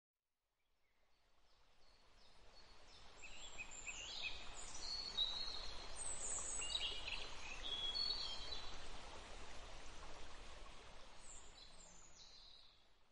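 Birds chirping and twittering in quick, high, overlapping calls over a steady background hiss, fading in over the first few seconds and fading out near the end.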